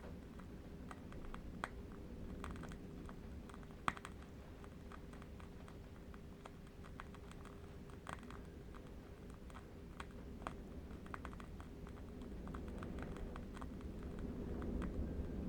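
Faint, irregular crackling of a burning candle wick: scattered small sharp clicks, a couple of them louder, over a low steady rumble of ambient wind that swells slightly near the end.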